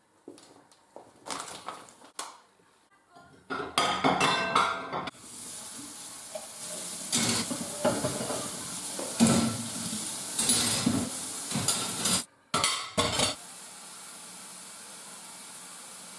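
Dishes and cutlery clinking and clattering, with a steady hiss starting about five seconds in, typical of kitchen work such as frying or a running tap.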